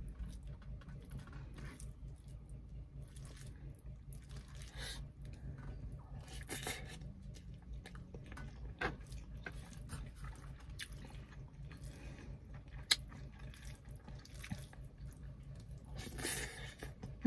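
Close-miked chewing and wet mouth sounds of a person eating fish and rice by hand: soft, irregular smacks and small clicks, with one sharper click about 13 seconds in, over a faint steady low hum.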